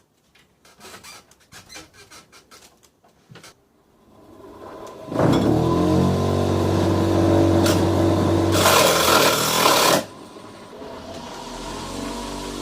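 Scattered light knocks and clicks, then about five seconds in a motor starts abruptly and runs at a steady speed. A harsh, louder grinding noise rides on it for about a second and a half before it cuts off suddenly around ten seconds in. A quieter motor hum builds again near the end.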